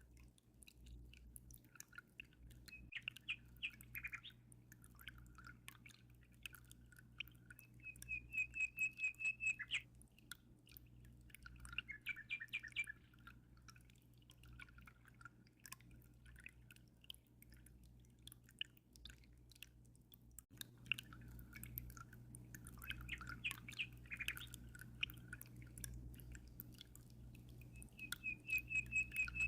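A small songbird singing repeated short phrases and quick trills every few seconds, with a fast pulsed trill about eight seconds in and again near the end. Behind it run faint constant drips and trickling water and a steady low hum.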